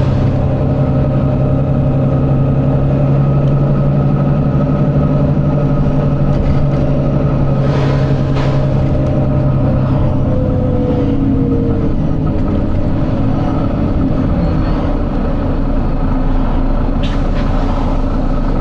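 Volvo B9TL double-decker bus's diesel engine running with a steady drone. Its pitch shifts a little about halfway through. Short hisses come in around 8 seconds and again near the end.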